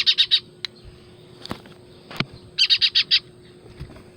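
A baby bird chirping in quick runs of high, short chirps: about four right at the start and about six more a little before three seconds in.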